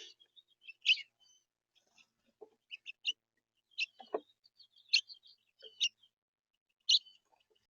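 Birds chirping: short, sharp high calls about once a second, with a few lower, shorter notes in between.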